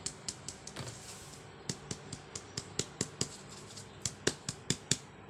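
Kittens playing, heard as a run of light, sharp clicks and taps, several a second, that come in irregular groups.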